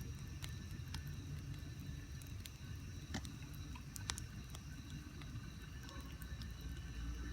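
Outdoor bonfire crackling, with irregular sharp pops and snaps over a low, steady rumble.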